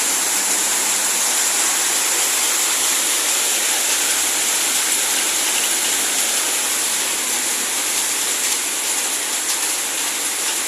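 Heavy rain pouring down: a steady, even hiss of falling water.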